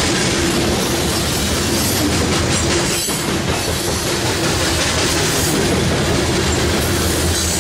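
Freight train of covered hopper cars rolling steadily past, steel wheels running on the rails, loud and continuous.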